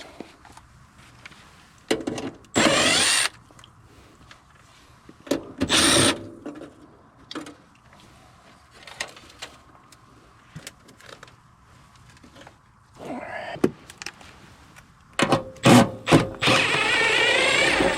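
Cordless drill/driver running in several short bursts, the longest near the end, with clicks and knocks of handling in between.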